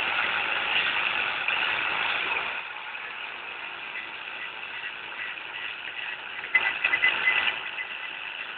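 Scratchy abrading on a boat motor part, as a tool tip takes material off; louder for the first two and a half seconds, then quieter, with a louder stretch of scraping about six and a half seconds in.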